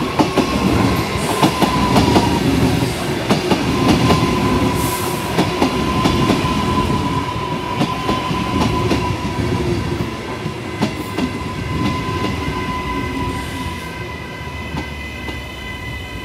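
Queensland Rail New Generation Rollingstock electric train passing close by: a loud rolling rumble with wheels clicking over the rail joints. A steady high tone runs underneath and dips slightly in pitch near the start. The sound eases off a little as the last cars go by.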